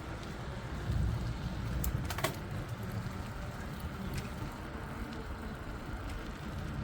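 Steady low wind and road rumble picked up by a phone microphone on a moving bicycle, with a couple of sharp clicks or rattles about two seconds in.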